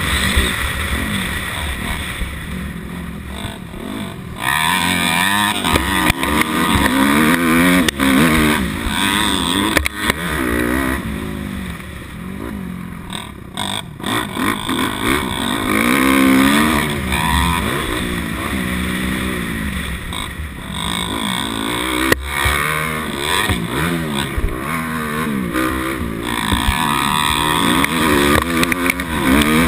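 250 dirt bike engine revving up and falling back again and again, its pitch climbing and dropping every few seconds as the rider works the throttle and gears.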